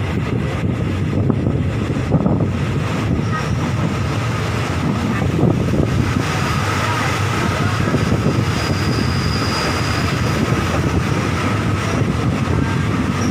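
Passenger train rolling slowly into a station, heard from a carriage window: a steady rumble of wheels on the rails, with wind buffeting the microphone. A thin, steady high squeal runs through it, with a higher squeal joining for a couple of seconds past the middle as the train slows.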